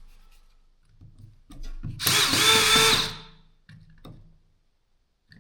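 Cordless drill motor run in one short burst of about a second, a couple of seconds in: a whine that rises as it spins up and falls away as the trigger is let go. A few small clicks and handling knocks sit around it.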